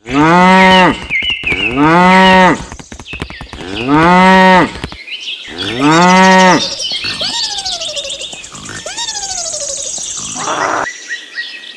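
Cattle mooing: four loud, drawn-out moos about two seconds apart, each rising then falling in pitch, followed by two quieter calls that slide downward in pitch.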